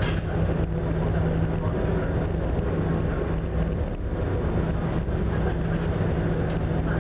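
Passenger ferry's engine humming steadily under a constant rush of wind and heavy seas.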